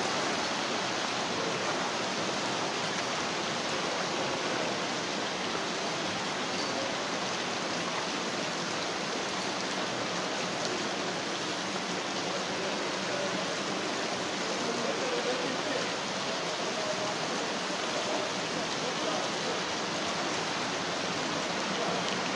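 Heavy rain and rainwater rushing through a flooded street: one steady, even hiss that does not let up.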